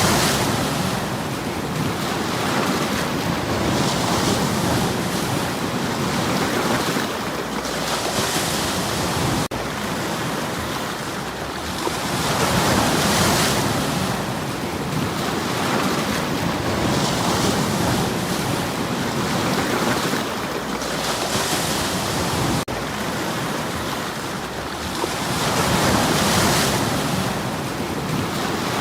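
Sea waves breaking and washing over stones on the shore, a continuous rushing hiss that swells with each wave about every four to five seconds.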